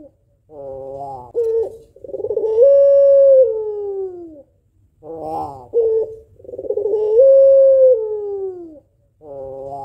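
White Barbary dove (puter) hen cooing twice, about four and a half seconds apart. Each call opens with a short rolling stutter, then runs into a long drawn-out coo that steps up in pitch and glides down at its end.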